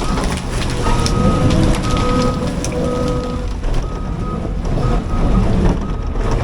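CAT 323 excavator's diesel engine running under load, with an alarm beeping about once a second over it, typical of a travel alarm while the machine tracks.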